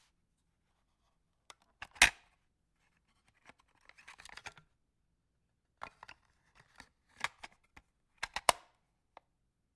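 Handling noises: scattered sharp clicks and short scraping, rustling sounds. The loudest click comes about two seconds in, and a cluster of clicks comes near the end.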